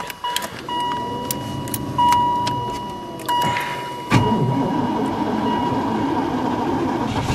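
Oldsmobile 307 four-barrel V8 in a Chevrolet Caprice wagon cranking over at about zero degrees after one pump of the accelerator and the choke set, with the car's warning chime ringing. About four seconds in the engine catches and runs rough on the choke: not happy in the cold, but a runner.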